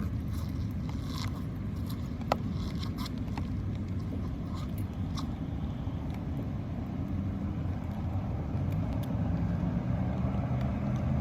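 Steady low background rumble, with a single sharp click about two seconds in.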